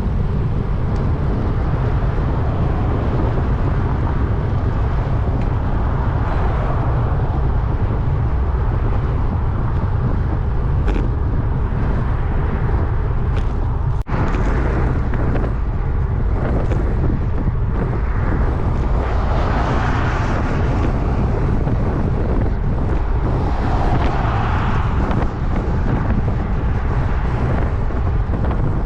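Wind rushing and buffeting over the microphone of a moving road bike, a steady low rumble with hiss that swells about twenty and again about twenty-four seconds in. A sharp click with a brief dropout about fourteen seconds in.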